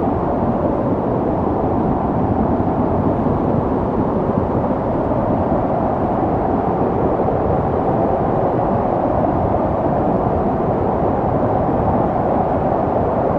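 Snowstorm wind blowing steadily: a dense, low rushing noise that holds an even level without gusts or breaks.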